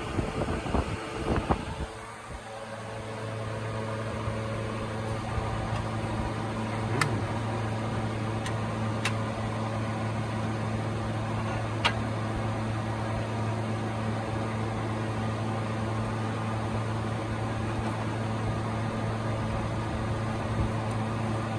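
Some clattering knocks, then a machine starts running with a steady low hum that builds up over a couple of seconds and holds evenly; a few sharp clicks sound over it.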